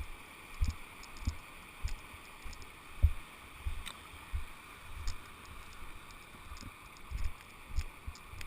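Footsteps through flattened grass and brush, a thud about every half second to second at walking pace, with the loudest step about three seconds in. Behind them runs the steady rush of the river flowing.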